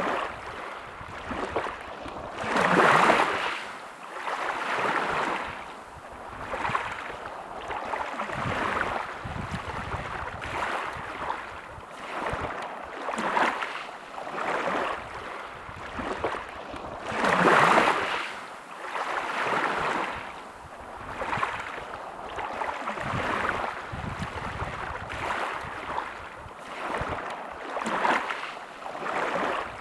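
Small sea waves washing in and out, a hiss that swells and fades every couple of seconds, with two bigger waves breaking about three seconds in and just past the middle.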